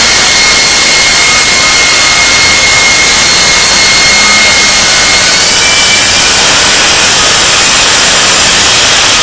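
Jet engine of a jet-powered semi truck running hard and very loud, so loud it overloads the recording: a dense roar with steady high-pitched whines over it, the whine stepping up slightly about five seconds in.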